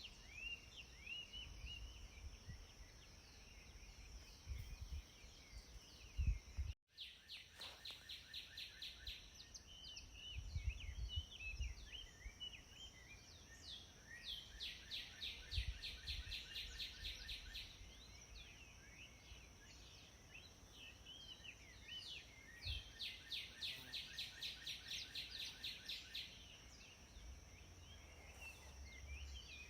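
Songbirds singing: several fast trills of rapidly repeated high notes, about ten a second, with scattered chirps between them, over a steady high hiss. Low rumbles come and go underneath, and the sound cuts out for an instant about seven seconds in.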